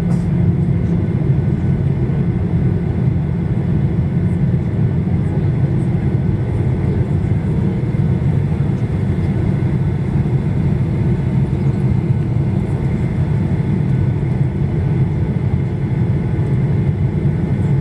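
Steady drone inside the passenger cabin of a Boeing 737-800, from its CFM56-7B turbofan engines, with a low hum that holds even throughout.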